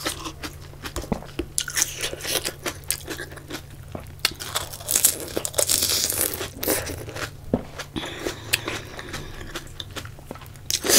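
Close-miked chewing of panipuri: the crisp puri shells crunching between the teeth, with irregular wet mouth clicks. The sound is busiest and loudest around the middle.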